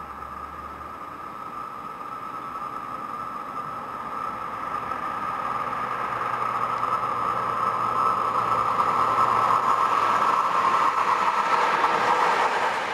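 Electric-hauled passenger train approaching and passing close at speed. The rush of wheels on rails grows steadily louder and cuts off suddenly near the end, with a steady high-pitched whine running underneath.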